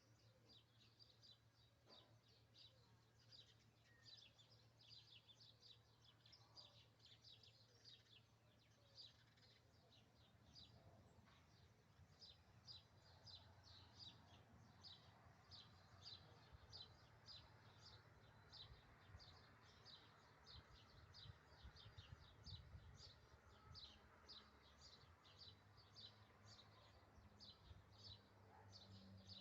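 Faint, high chirping repeated evenly about three times a second, a bird calling, over a low steady hum.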